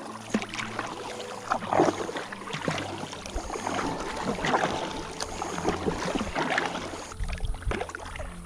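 Kayak paddle strokes: the blades dip and splash in the water about once a second.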